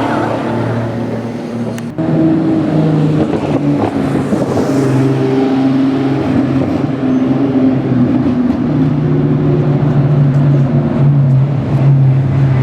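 NASCAR stock car V8 engine running at moderate revs, its pitch holding steady, then stepping up and down as the throttle changes. There is an abrupt change to a louder engine sound about two seconds in.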